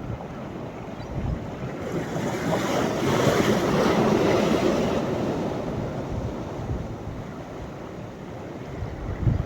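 Sea waves breaking on the shore at a rising tide: the surf swells about two seconds in, peaks, and washes out over several seconds.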